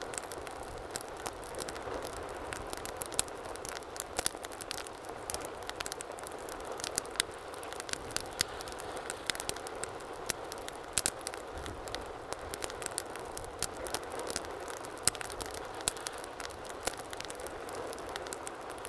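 Wood fire burning in a fireplace, a steady rush of flame with frequent sharp, irregular crackles and pops.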